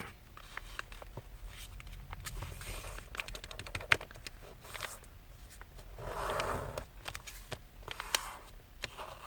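Sheets of thin paper being handled and folded by hand: scattered light crinkles and taps, with a longer rustle about six seconds in.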